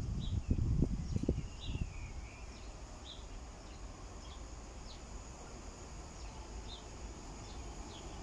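Small birds chirping outdoors, short high notes repeating every half second to a second over a low steady hiss, with a few low thumps in the first two seconds.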